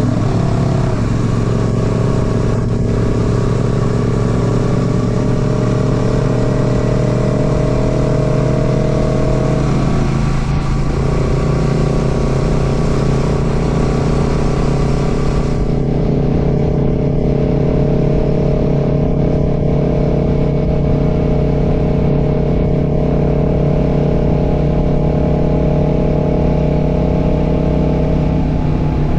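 Royal Enfield Classic 650's parallel-twin engine running steadily under way, heard from the rider's seat. Its note dips and picks up again about ten seconds in and once more near the end, as the rider eases off and gets back on the throttle.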